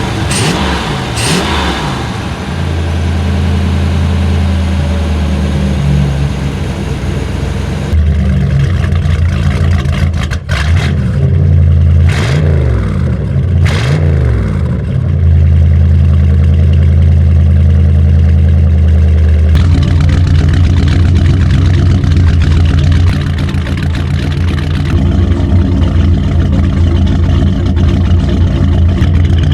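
Mercruiser 350 small-block 5.7 L V8 inboard engine running, with the revs rising and falling a couple of times near the middle. The tone changes abruptly twice.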